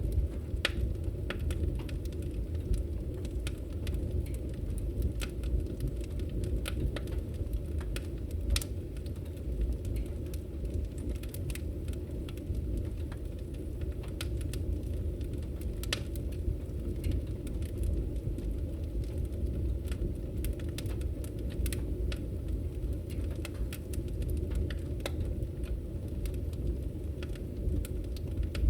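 Wood fire burning in a fireplace: a steady low rumble of the flames with frequent sharp crackles and pops from the burning logs at irregular intervals.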